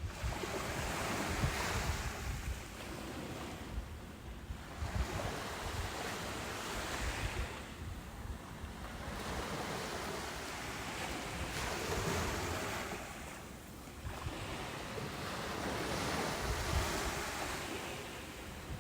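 Ocean surf breaking and washing up a beach, swelling and fading in about four waves, one every four to five seconds, with a hiss of foam between them.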